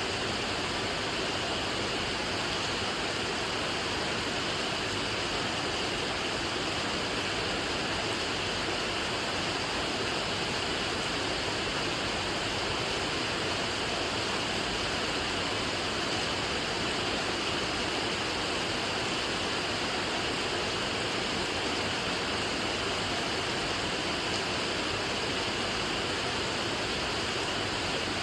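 Steady rain falling, a continuous even hiss with no single drops or thunder standing out.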